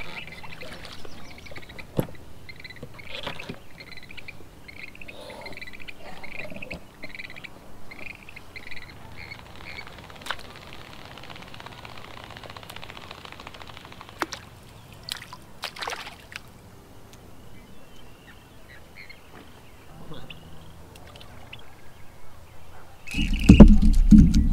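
A bird calling in a long run of short, evenly spaced calls over quiet lakeside ambience, with a few scattered clicks. Near the end a loud low rumbling and knocking right on the camera's microphone, as the angler's cast line catches the camera.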